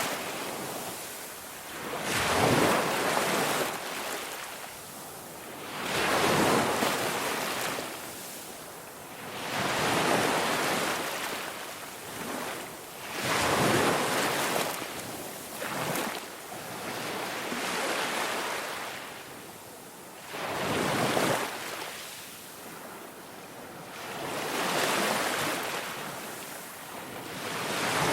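Ocean waves washing in, swelling and falling away every few seconds in a steady rush.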